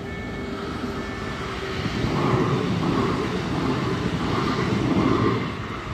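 Level-crossing warning signal beeping on and off, then a Koleje Dolnośląskie Impuls electric multiple unit passes over the crossing. The train noise swells about two seconds in, covers the signal, and drops away near the end.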